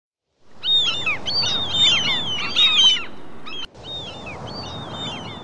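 Many birds chirping and whistling at once, short quick calls overlapping one another, over a steady background hiss. The sound cuts out briefly about three and a half seconds in, then the chirping carries on more faintly.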